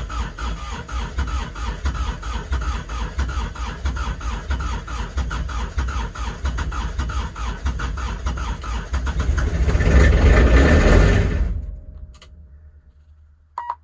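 Kubota RTV900's three-cylinder diesel engine cranking on the starter in a cold start, turning over in an even rhythm of about five pulses a second without firing. It gets louder for about a second before the cranking stops abruptly. This is a failed start at −8 °F, which the owner blames on summer diesel fuel still in the tank.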